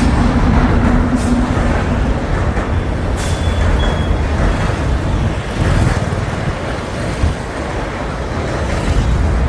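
Jammu Tawi–Kolkata Express train rumbling across a bridge: a loud, steady low rumble of the wheels on the span, with a hum in the first two seconds and a couple of sharp clicks.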